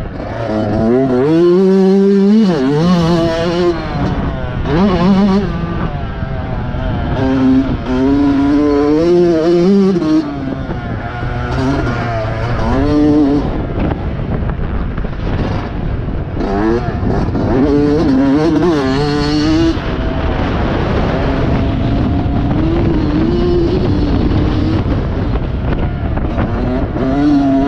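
Motocross bike engine being ridden hard, its pitch climbing and dropping every second or two as the throttle opens and closes and the gears change.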